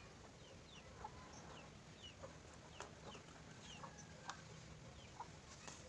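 Faint bird chirping: many short downward-gliding peeps, several a second, with a few light clicks among them.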